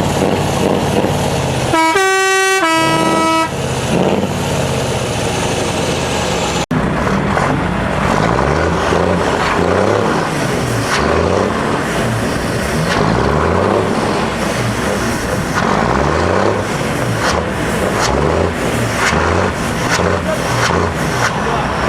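Lorry engines with straight-piped, open exhausts. An air horn blows for about a second and a half, changing note once, about two seconds in. After that, a truck engine is revved again and again, its pitch rising and falling with each blip.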